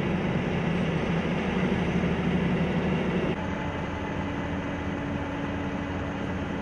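A heavy engine running steadily with a low hum. About three seconds in the sound changes abruptly to a slightly quieter, steady machine note with a held tone.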